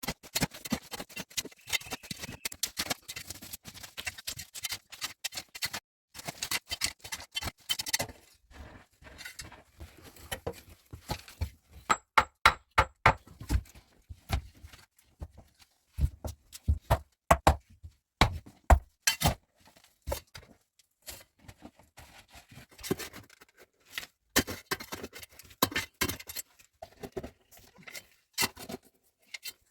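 Irregular clicks, taps and knocks of objects being handled, with a run of heavier, evenly spaced thuds from about twelve to nineteen seconds in.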